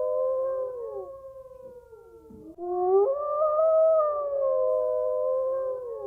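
Wolves howling in chorus: several long, overlapping howls at different pitches slide and waver, fade about a second in, and a new round of howls rises about three seconds in.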